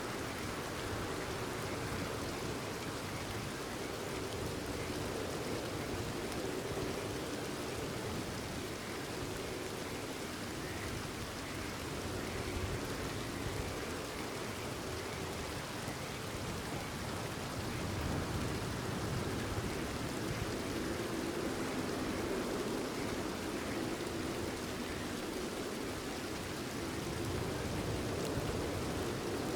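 Steady rain falling, with frogs croaking underneath.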